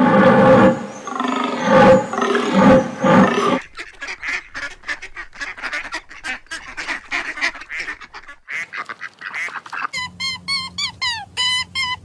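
Domestic goose calling: a few loud honks, then a fast string of short chattering calls. About ten seconds in, this gives way to quick falling chirps over a low steady hum.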